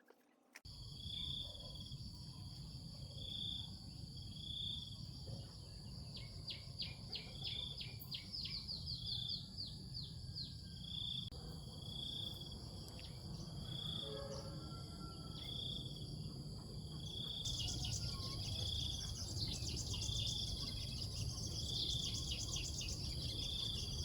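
Outdoor countryside ambience: insects keeping up a steady high-pitched whine, with a short call repeating about every second and a half, bursts of rapid bird chirps, and a low rumble underneath.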